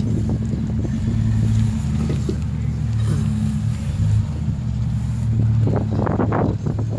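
Engine of a lifted Jeep Grand Cherokee running steadily at low revs as it crawls over logs and concrete slabs, a low even hum. A person's voice calls out briefly near the end.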